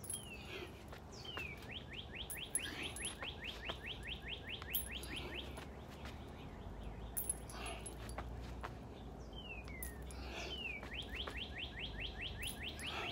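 A songbird singing twice: each song opens with two short falling notes, then runs into a long rapid trill of falling notes, about five a second, lasting several seconds.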